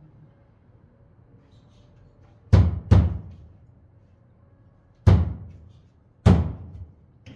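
Four heavy knocks, each with a short ringing tail: two close together about two and a half seconds in, then two more spaced about a second apart in the second half.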